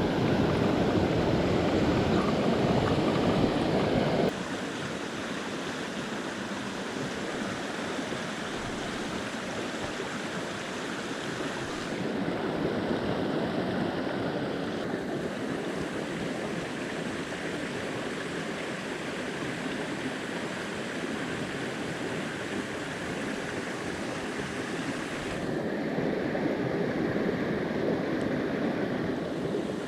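Mountain stream water rushing over rocks, a steady noise that drops abruptly in level about four seconds in and shifts in tone a few more times.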